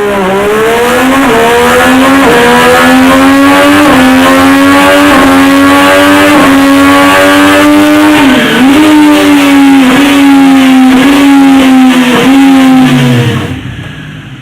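Triumph 765 three-cylinder motorcycle engine at high revs, accelerating hard through the gears. Its note dips briefly at each upshift, about six times, then fades out near the end.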